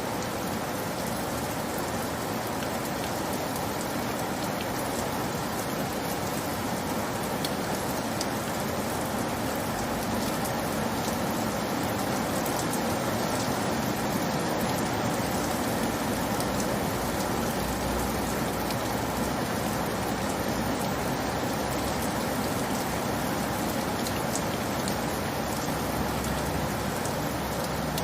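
Steady rainfall, an even hiss of rain with scattered drop ticks.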